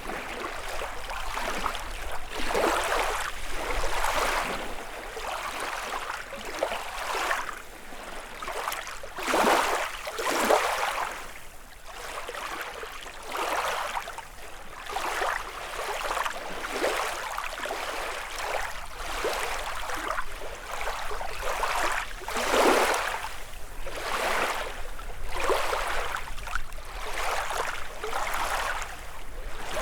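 Small lake waves lapping and washing against the shore in irregular surges, one every second or two.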